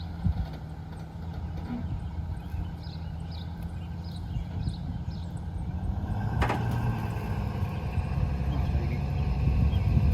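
Vehicle engine running steadily, with a single sharp metallic clank about six and a half seconds in; the engine grows a little louder afterwards.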